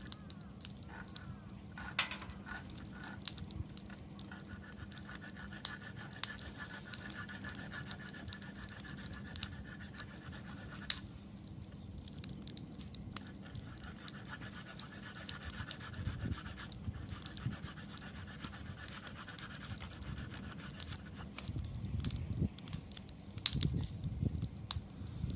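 Wood bonfire crackling with scattered sharp pops. A faint fluttering hiss comes and goes through the middle, and a low rumble with denser pops builds near the end.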